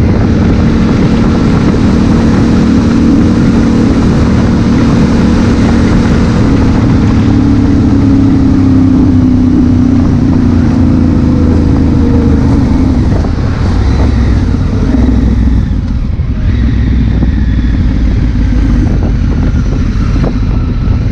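Honda Africa Twin CRF1000L's parallel-twin engine running under way, mixed with low wind rumble on the camera. The engine note drops in pitch around the middle as the bike eases off, then runs lower and quieter toward the end.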